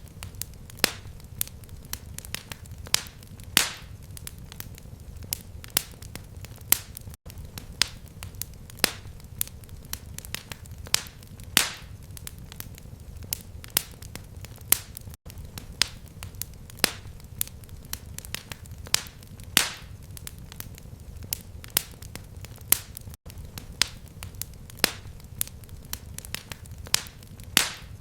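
Fireplace fire crackling: irregular sharp pops and snaps, a few loud ones standing out, over a steady low rumble of flame. The sound cuts out for an instant about every eight seconds.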